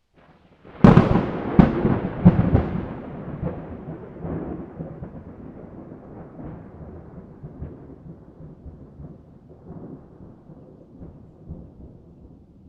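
A thunderclap: a sudden sharp crack about a second in, two more cracks close behind, then a long rolling rumble that slowly dies away.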